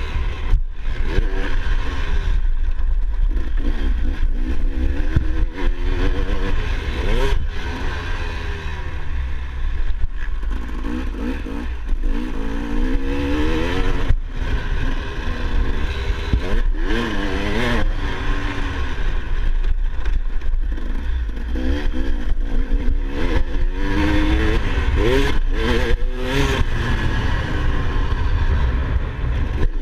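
Motocross dirt bike engine revving up and down over and over as it is ridden, its pitch rising and falling every second or two. A steady heavy low rumble runs underneath, with scattered sharp knocks and clatter.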